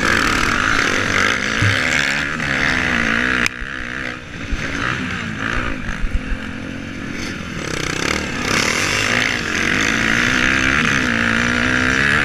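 Motocross motorcycle engines racing, revving up and down as the bikes accelerate and shift. There is a sudden drop in loudness about three and a half seconds in, before the engine noise builds again.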